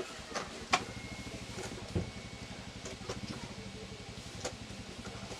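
A low, steady engine-like hum with an even pulse starts at the opening, with a few sharp clicks and knocks on top, the loudest about a second in and again at about two seconds.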